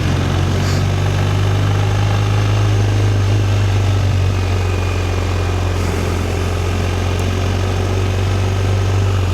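Motorcycle engine running at a steady, unchanging pitch, a constant low drone with no revving.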